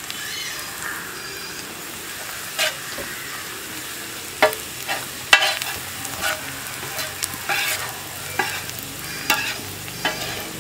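Onion, green chilli and spice masala sizzling in oil in a large black metal pan, stirred with a spoon. From a few seconds in, the spoon scrapes and knocks against the pan every half-second to second over a steady sizzle.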